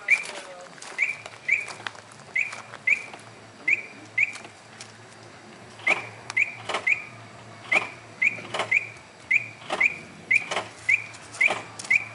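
Repeated short, high chirps, about two a second in pairs and runs, typical of a bird calling, mixed with sharp clicks.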